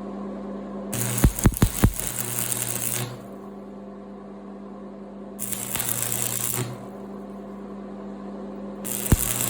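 Stick welder laying three short tack welds on steel: each arc crackles and hisses for a second or two, the first struck after a few sharp taps of the electrode, over the welder's steady hum.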